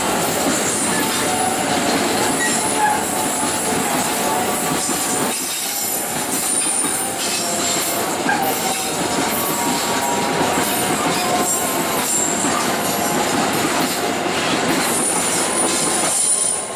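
Container freight train rolling past at close range, the steady rolling rattle of its loaded flatcars overlaid by thin high wheel squeal as the wheels grind round the curved track.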